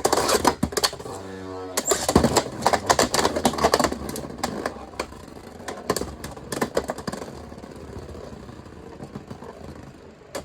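Two Beyblade spinning tops, one of them 3D-printed, battling in a plastic stadium: a rapid run of sharp clacks as they collide over the first few seconds, another cluster of hits about six seconds in, then a steady whirring that slowly fades as they spin down.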